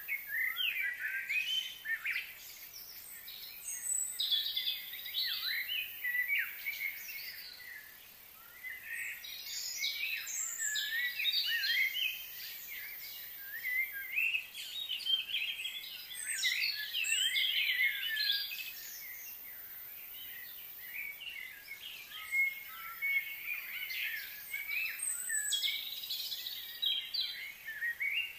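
Songbirds chirping and calling, several overlapping, in busy stretches broken by short lulls.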